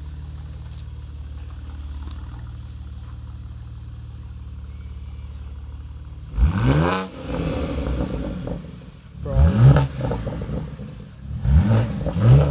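BMW G80 M3 Competition's twin-turbo inline-six idling steadily through a newly fitted aftermarket exhaust. After about six seconds it is blipped up and back down in sharp revs, about four times, with pauses between them.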